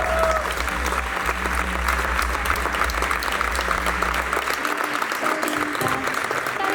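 Audience applauding, with a low bass tone from the music underneath that cuts out about two-thirds of the way through.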